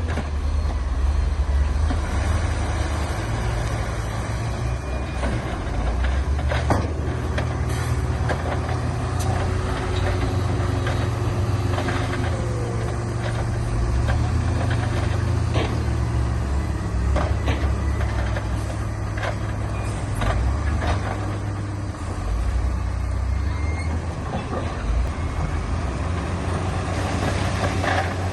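Heavy diesel earthmoving machinery running under load, a steady deep engine rumble, with scattered sharp knocks and clanks over it.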